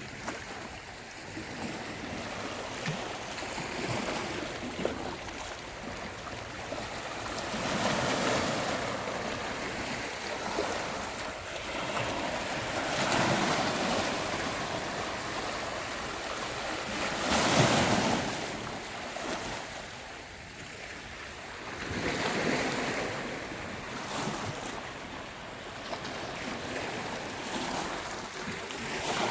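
Sea waves breaking on a beach, the surf swelling and falling back every few seconds over a steady wash, with one louder break about two-thirds of the way through.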